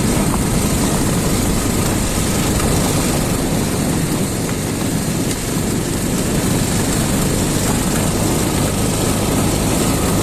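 A motor vehicle's engine running steadily on an off-road ride, with heavy wind rumble on the microphone.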